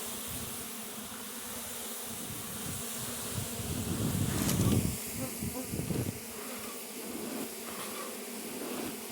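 Russian honey bees buzzing steadily around an open hive. About four seconds in, a louder low rumble lasts roughly two seconds.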